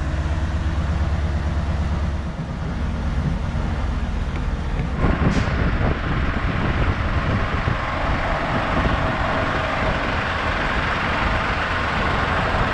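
Heavy truck's diesel engine running steadily, with a sudden sharp air hiss about five seconds in, after which a steady, brighter noise comes in.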